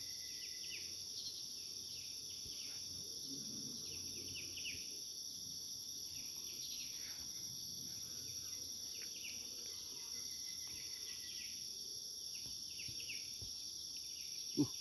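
A steady chorus of forest insects, a continuous high-pitched buzzing at two pitches, with scattered short chirping calls over it and a single knock near the end.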